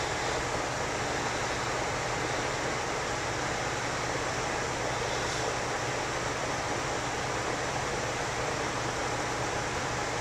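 Steady rushing air noise with a low hum from the heat pump's outdoor unit; the locked compressor does not try to start, as it is out on its internal overload.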